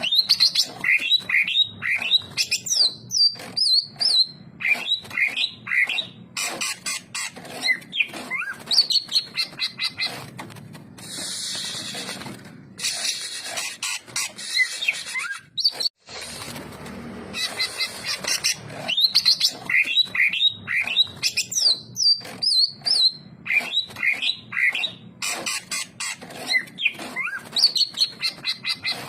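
Leafbird (cucak ijo) singing a fast, varied chattering song of whistled notes, rising and falling glides and clicks, broken by short hissy rasping bursts. The same run of phrases plays again about halfway through, like a looped recording.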